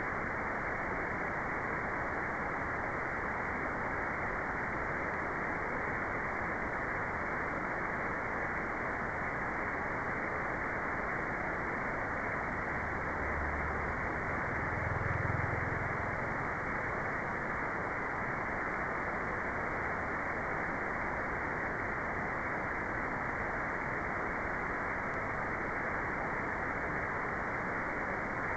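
Steady white noise, an even hiss with its high end cut off, so it sounds dull rather than bright. A brief low rumble swells up and fades about halfway through.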